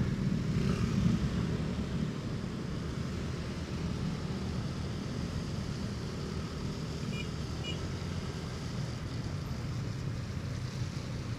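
Motorcycle engine running at road speed, mixed with steady wind and road noise on the camera.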